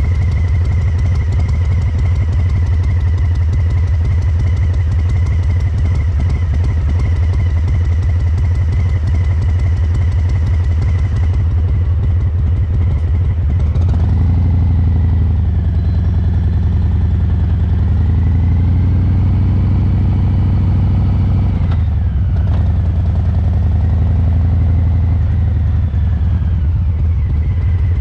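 Harley-Davidson Breakout 114's Milwaukee-Eight 114 V-twin running through COBRA Neighbor Hater slip-on mufflers, tuned for a loping three-beat rhythm. It runs steadily at low revs while riding. About halfway through it accelerates, drops briefly at a gear change, pulls again, then eases off near the end.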